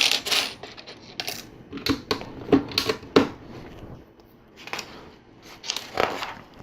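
LEGO 2x4 plates being handled and pressed onto a build: scattered small plastic clicks and clatters, the sharpest about two and a half, three and six seconds in.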